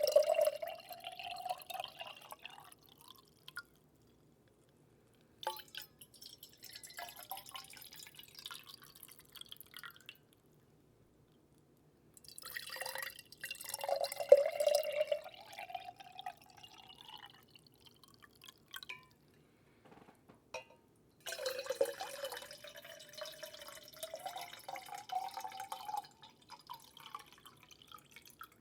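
Water trickling and dripping into a small vessel in four bouts of a few seconds each, with short silences between them. In each bout a hollow tone rises slowly in pitch as the vessel fills.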